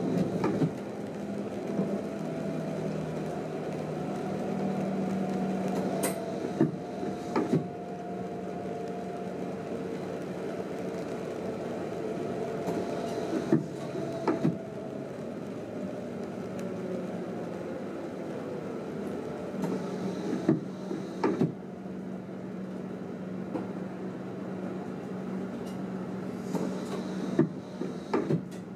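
A train running, heard from inside the driver's cab: a steady hum with a whine that slowly sinks in pitch over the first half, and scattered sharp clicks and knocks, a few of them loud.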